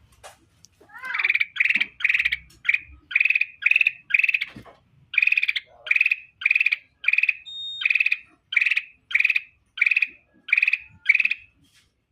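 A kutilang emas (golden bulbul) singing 'gacor', in full song: a long, steady run of short, loud, warbling chirps, about two a second.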